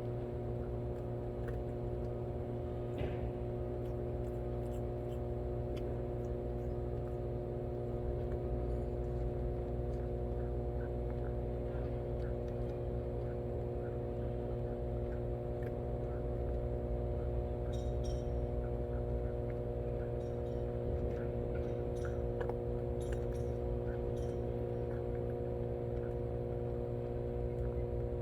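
A steady hum of several held tones, with faint scattered small clicks and clinks of cats eating from their bowls.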